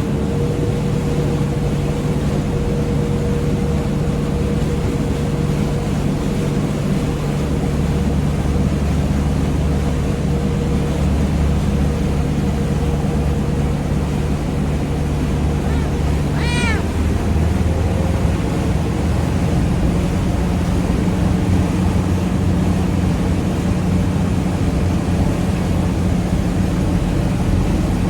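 Passenger ferry's engine running with a steady, loud drone. About two-thirds of the way through, a cat gives a single short meow.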